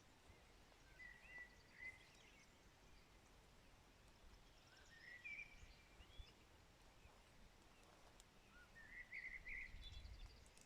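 Faint birdsong: a few short chirping, warbling phrases about a second in, around five seconds in and near the end, over a faint steady hiss of light rain. A soft low rumble comes in near the end.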